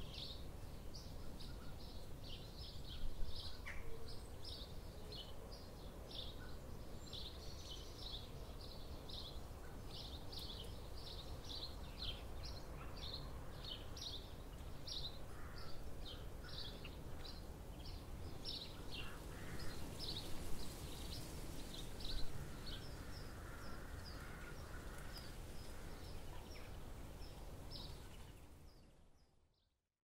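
Small birds chirping in short, high, repeated calls, several every second, over a low steady outdoor rumble. The sound fades out near the end.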